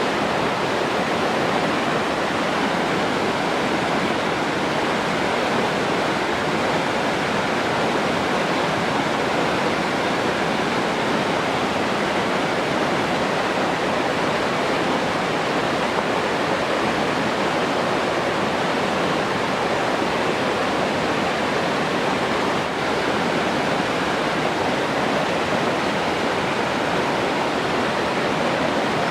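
Running water rushing steadily, an even unbroken hiss with no changes.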